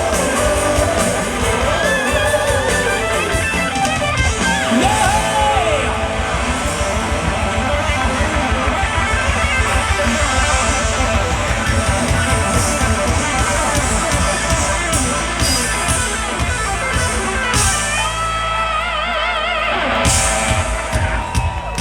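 Rock band playing live: electric guitar over bass and drums with a steady beat, and wordless vocals, at the close of a song.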